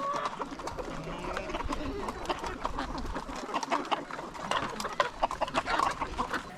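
Chickens clucking, mixed with many sharp little clicks and taps that are busiest in the second half.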